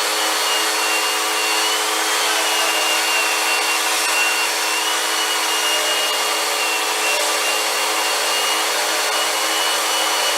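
Vacuum cleaner running steadily: an even rushing hiss with a hum and a high whine that wavers slightly in pitch.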